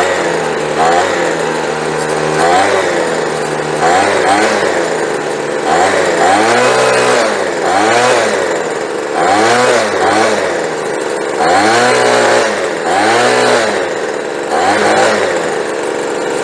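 Small two-stroke leaf blower engine revved up from idle and let back down, about ten times in a row, while its carburettor's high-speed fuel screw is opened up because it would idle but not run at full throttle.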